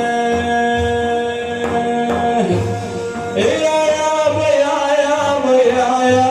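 Devotional religious song with hand drums beating a steady rhythm under it: a long sustained sung note for the first half, then a wavering, ornamented vocal line starting about three and a half seconds in.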